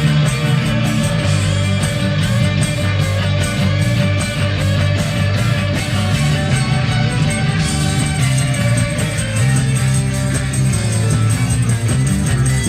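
Live ska-reggae band playing, driven by a heavy bassline with guitar over it.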